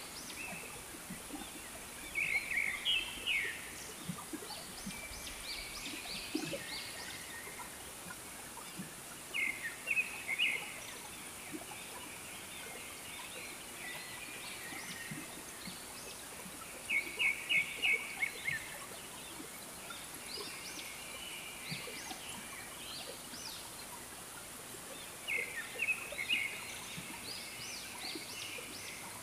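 Birds calling: a loud, rapid run of repeated notes comes four times, about every eight seconds, over fainter scattered chirping.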